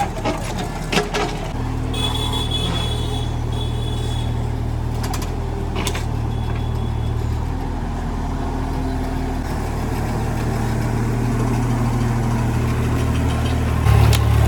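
Mini JCB backhoe's diesel engine running steadily, with a few knocks in the first second or so. Near the end it steps up to a higher, louder speed.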